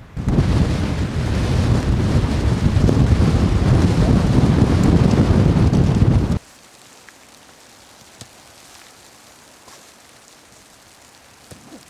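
Strong wind buffeting the microphone: a loud, low rumbling noise that cuts off abruptly about six seconds in, leaving a much fainter steady wind hiss.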